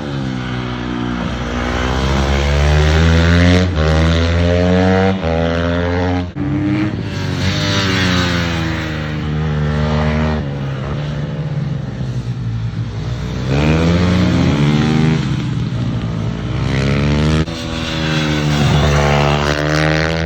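Racing motorcycle engine at high revs, its pitch climbing and then dropping sharply several times as it shifts up, with longer falls in pitch as it slows for corners before revving up again.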